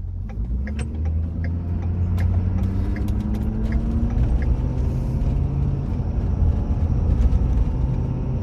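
A car's engine and road noise heard from inside the moving car. The engine note rises for a few seconds as it accelerates, then holds steady.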